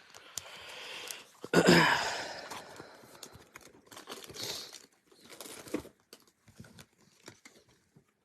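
Thin plastic penny sleeves and a rigid plastic top loader being handled as a trading card is sleeved: crinkling and rustling, loudest for about a second starting a second and a half in, with small clicks and taps.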